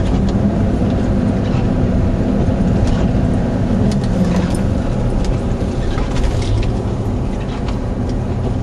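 Jeep engine running loud and steady with the throttle held down, no easing off.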